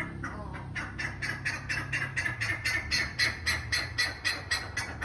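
A bird giving a rapid series of short, harsh calls, about four a second, growing louder toward the middle, over a steady low background rumble.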